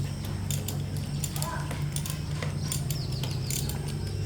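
Scattered sharp clicks and taps, like hand tools working on metal parts, over a steady low hum. A few short bird chirps come near the end.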